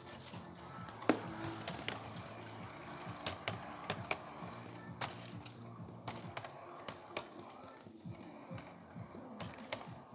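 Train wheels clacking over rail joints: irregular sharp clicks over a low steady hum.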